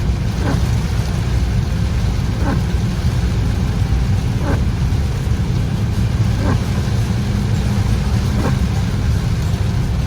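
Road and engine noise heard from inside a car driving in heavy rain: a steady low rumble under a hiss, with a faint short sound repeating about every two seconds.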